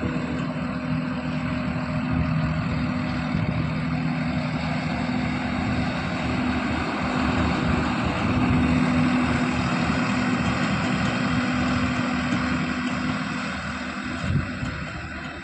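Swaraj 969 FE tractor's diesel engine running steadily at a constant speed, a little louder in the middle and fading near the end, with a single knock shortly before the end.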